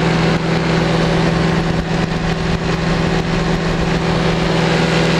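Powered parachute's engine and propeller running at a steady, even power setting in flight, a constant drone that neither rises nor falls.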